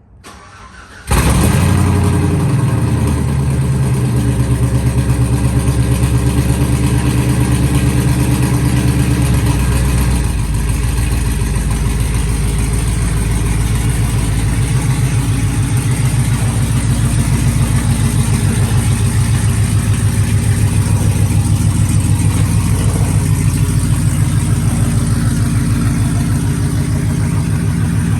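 Pickup truck engine starting about a second in, then running loud and steady. Its pitch steps down about ten seconds in as the idle settles lower.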